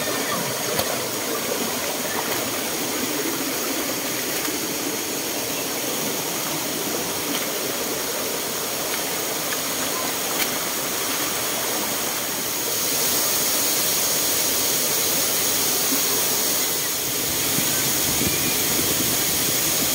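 Steady rushing of a jungle waterfall and its stream, a little louder from about two-thirds of the way in.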